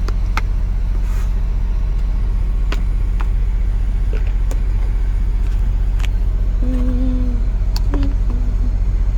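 Steady low rumble of an idling truck engine, with a few light clicks over it.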